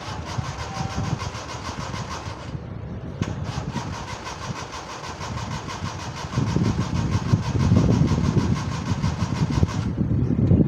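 Suzuki Mehran's three-cylinder carburetted engine being cranked on a weak battery in two tries, the starter motor's fast, even churning broken off briefly after a couple of seconds. About six seconds in the engine catches and runs rough and loud under the pumped accelerator while the starter is still engaged, and near the end the starter drops out and the engine keeps running.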